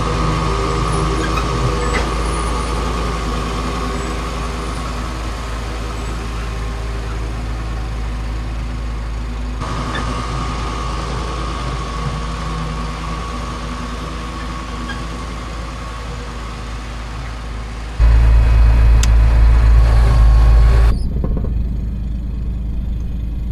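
Farm vehicle engine running steadily, with a louder, deeper rumble for a few seconds near the end.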